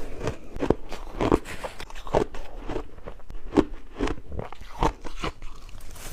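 Shaved ice being bitten and chewed close to the microphone: a run of irregular crunches, about one or two a second.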